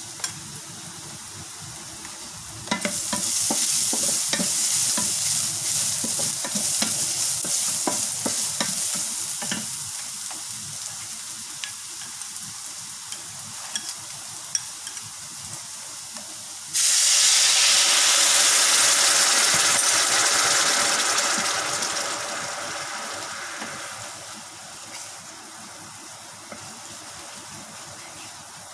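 Chopped garlic and ginger sizzling in hot oil in a stainless steel wok, with a wooden spatula clicking and scraping as it stirs. About 17 seconds in, liquid for a sauce goes into the hot pan: a sudden, louder sizzle that fades over several seconds as the liquid comes to a simmer.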